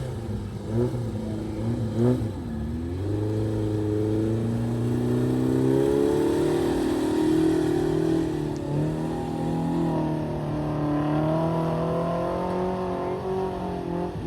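Mega truck engine revving: three quick blips, then a long pull held at high revs, its pitch wavering up and down.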